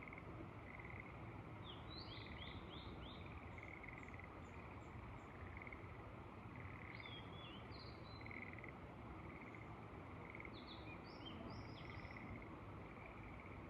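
Frogs calling in the rice paddies, short pulsed croaks repeating about once a second, while a bird gives quick runs of chirps three times. Under them, a steady low hiss of wind.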